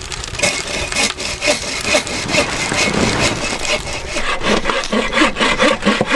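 Saw cutting wood in steady back-and-forth strokes, about two a second.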